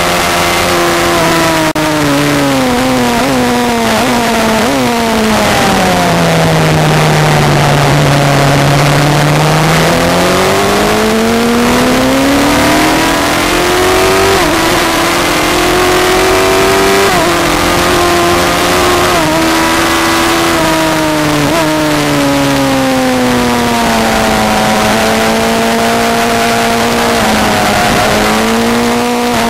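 Honda Fireblade 929's inline-four engine at track speed, recorded onboard over a steady rush of wind. The engine note falls away over a few seconds as the bike slows and changes down, stays low through a slow corner, then climbs again under hard acceleration with a few quick stepped gear changes before falling once more.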